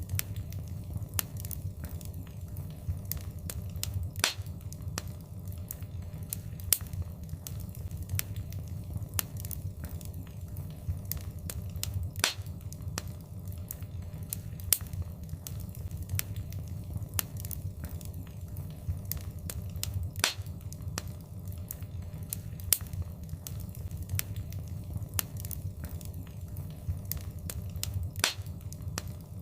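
Wood fire crackling in a fireplace: a steady low rumble under frequent irregular pops and snaps, with a few louder pops every several seconds.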